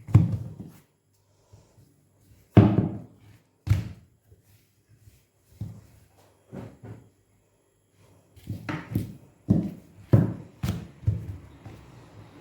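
Dough being kneaded and pressed on a kitchen work surface, making dull thumps: a few separate ones, then a quicker run of thumps in the last few seconds.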